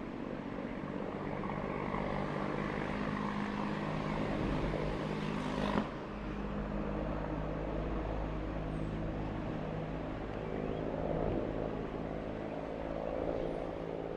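An engine running steadily with a low hum. The hum swells a couple of seconds in, stays up, then eases off. There is a single sharp click a little before halfway.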